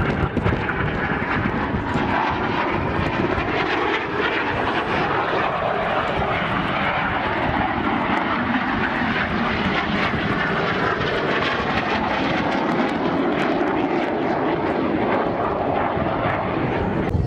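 Aircraft engine noise from an aeroplane flying a display, loud and steady, with a slow sweeping shimmer in pitch as it passes overhead.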